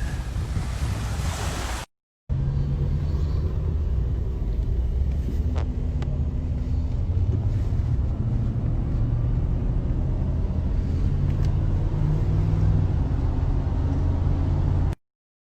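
Wind and surf for about two seconds, then, after a sudden cut, a car's steady low rumble of engine and road noise that stops abruptly near the end.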